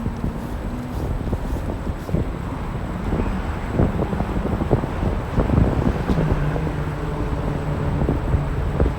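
Wind buffeting the microphone in a gusty low rumble, with a faint low hum underneath.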